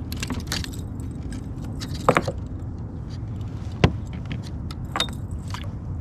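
Light clicks and rattles of fishing gear being handled in a kayak, with two sharper knocks about two and four seconds in, over a steady low rumble.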